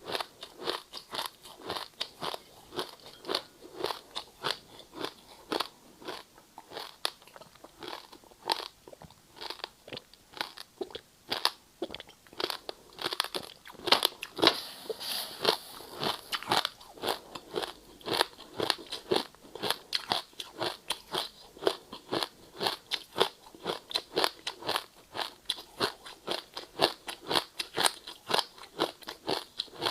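Ice being bitten and chewed: a steady run of sharp crunches, two or three a second, with a denser, louder stretch about halfway through.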